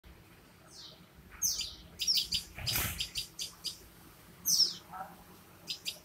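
Small birds chirping: high chirps that slide downward, about four of them spaced out, with runs of short quick chirps in between. A brief rustle a little under three seconds in.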